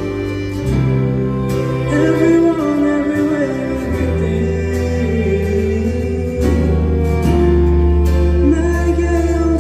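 Live band playing a pop song over amplified speakers, with a steady bass line changing notes every second or two, guitar, and a voice singing over it.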